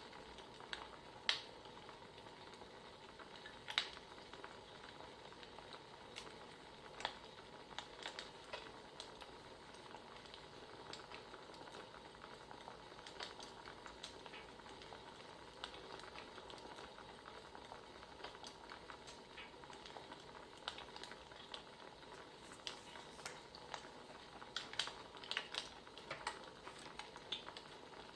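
Faint crackling wood fire: a steady soft hiss with scattered sharp pops and snaps, a little more frequent near the end.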